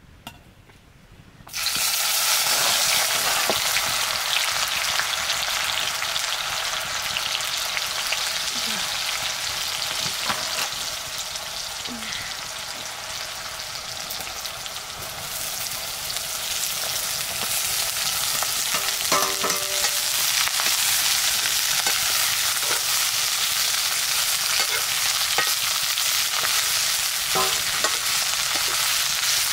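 Food sizzling in hot oil in a pan, starting suddenly about a second and a half in as it goes into the pan, with light clinks of stirring. The sizzle eases a little in the middle, then rises again.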